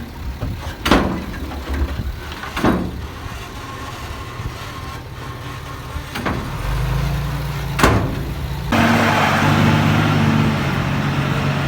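Heavy diesel engines of earthmoving machinery running, with a few sharp clanks spread through the first eight seconds. About nine seconds in, an engine note rises, with a loud rushing noise over it.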